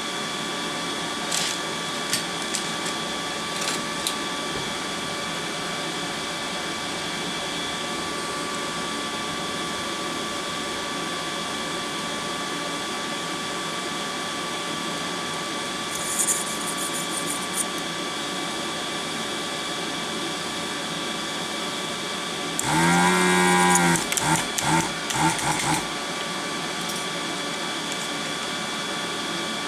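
Pro'sKit SS-331 desoldering gun's vacuum pump running steadily with a hum, with a few light clicks and a louder pitched, pulsing sound for about three seconds near the end. The suction is weak, which the owner puts down to a clogged filter.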